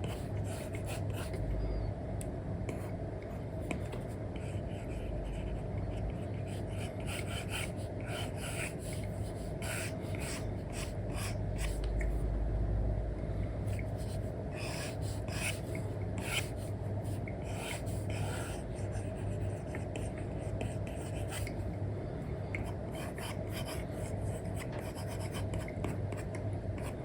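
Apple Pencil with an Elecom nib scratching and tapping against a paper-like matte screen film on an iPad, in many short strokes heard over a steady low hum.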